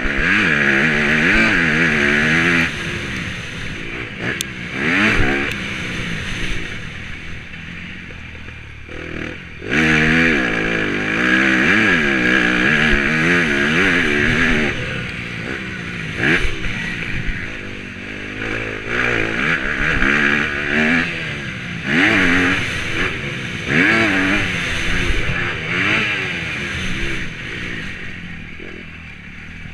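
Motocross bike engine revving hard and backing off over and over, its pitch climbing and falling with each burst of throttle.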